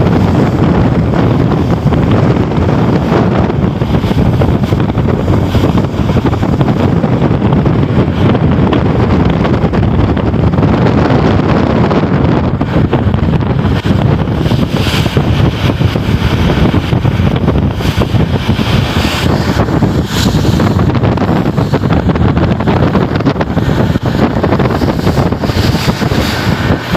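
Strong wind blowing across the microphone on a ship's deck: a loud, steady low rumble, with a few brief hissing gusts in its second half.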